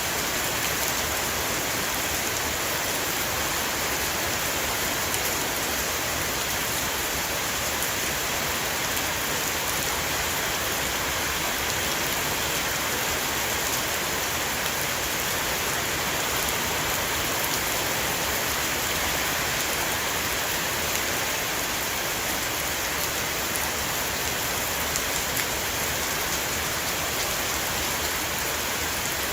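Heavy rain falling steadily on a roof, an even hiss with fine drop ticks that stays constant throughout.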